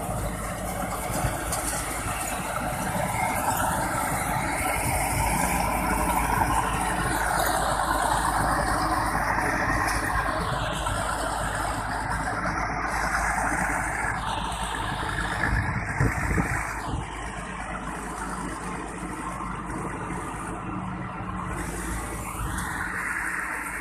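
Rice combine harvester running steadily, a continuous engine and machinery drone, dropping a little in level about two-thirds of the way through.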